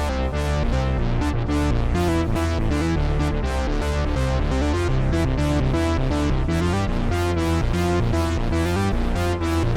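Moog Messenger analog monosynth playing a fast sequence of short notes over a heavy bass, with delay echoes.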